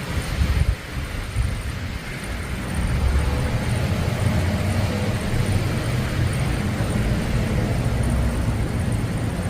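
Thunder rumbling: a short low burst about half a second in, then a deep rumble that builds about three seconds in and carries on steadily.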